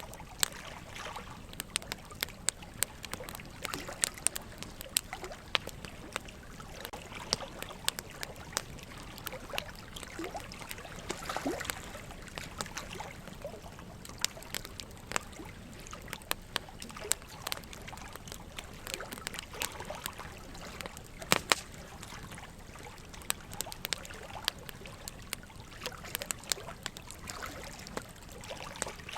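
Wood logs burning in a fireplace, crackling with frequent sharp pops at irregular intervals, a louder pair of pops about two-thirds of the way through, over a steady trickle of running water.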